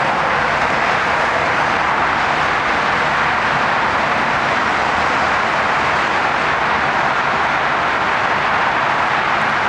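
Steady roar of heavy freeway traffic close by, an even rushing noise with no breaks.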